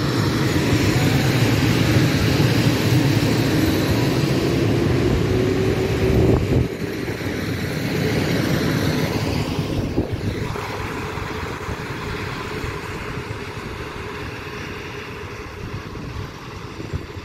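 Trains passing on electrified track: open freight wagons rumbling by, then an electric multiple unit running past with a steady whine, the noise dying away near the end.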